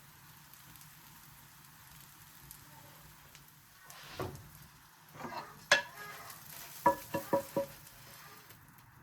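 Food frying in a pan with a faint, steady sizzle. From about four seconds in, a utensil clinks several times against cookware.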